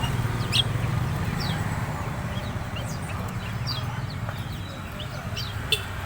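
A bird giving many short, sharp, falling chirps at irregular intervals, the loudest about half a second in and again near the end, over a steady low hum.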